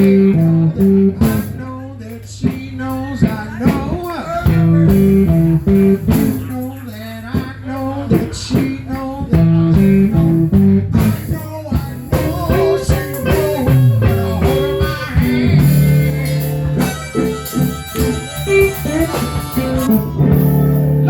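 Live electric blues band playing, with guitar out front over a repeating bass line and a steady beat.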